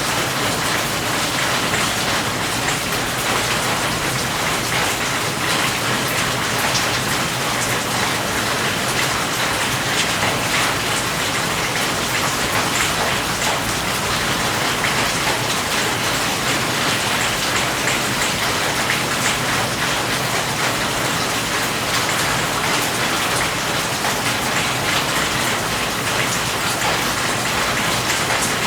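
Steady rain falling, an even hiss of many drops with fine patter of individual raindrops striking a surface.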